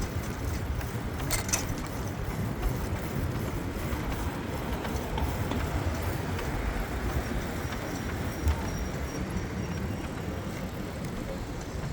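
Steady rush of wind on the microphone with road noise while riding a bicycle along a street, with a couple of faint clicks.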